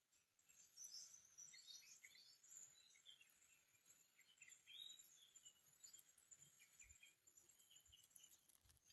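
Faint, scattered bird chirps, short high calls at irregular intervals over a very quiet background.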